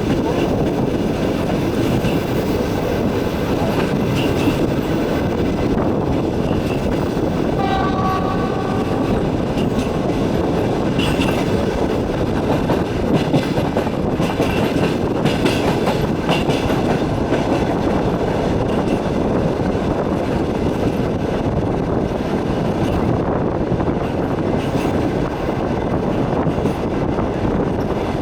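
Passenger train running, heard from inside the carriage at the window: a steady rumble of wheels on rails. About eight seconds in, a short horn sounds.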